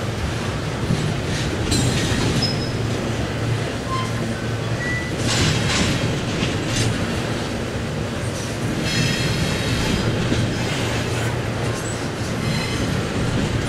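Double-stack intermodal well cars rolling past, a steady rumble of steel wheels on rail, with high-pitched wheel squeals coming and going several times.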